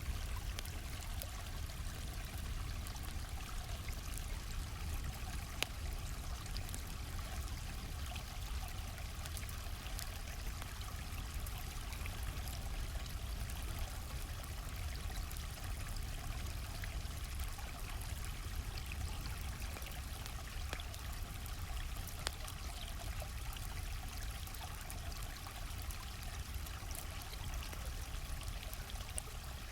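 Steady rushing and trickling of a flowing stream, with sparse sharp pops and crackles of a wood campfire scattered through it.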